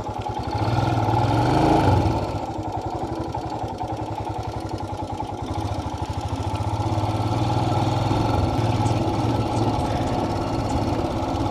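Royal Enfield motorcycle engine running with a rapid, even beat; it picks up briefly about a second or two in, then settles to a steady pace.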